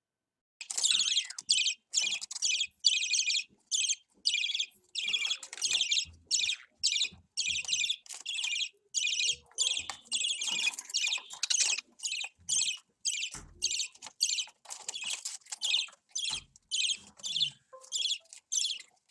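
Budgerigar chicks calling in a rapid series of short, harsh, hissy bursts, about two a second.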